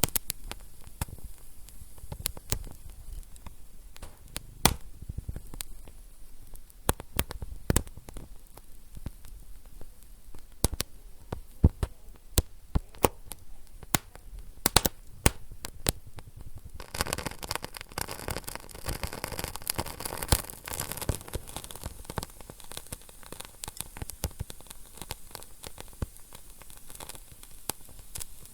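Wood fire crackling in a fireplace, with sharp pops and snaps scattered irregularly throughout. For a few seconds past the middle a steady hiss swells up, then eases off.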